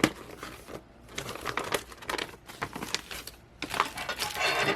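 Plastic packaging crinkling and rustling while small mounting-kit parts are handled, with scattered clicks and knocks; a sharp click right at the start, and the rustling thickest near the end.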